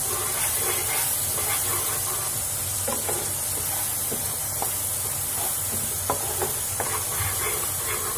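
Spice paste (masala) frying in hot oil in a non-stick wok, sizzling steadily, while a wooden spatula stirs it with a few light knocks and scrapes on the pan; the masala is being roasted (bhuna).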